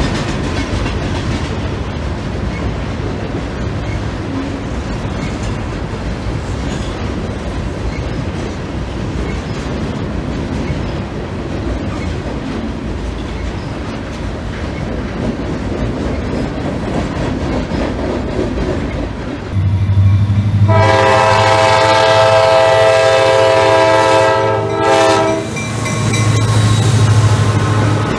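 Hopper cars of a freight train rolling across a steel girder bridge: a steady rumble with wheel clatter. About two-thirds of the way in a diesel locomotive's engine comes in and its air horn sounds one long blast of about five seconds, then the locomotive's engine continues as it passes.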